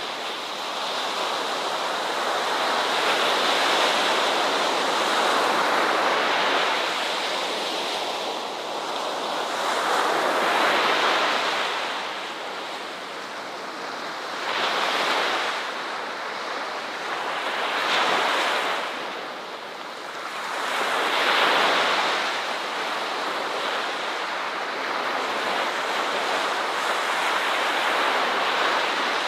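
Ocean waves breaking and washing on a shore, a continuous surf that swells and eases every few seconds, with some wind.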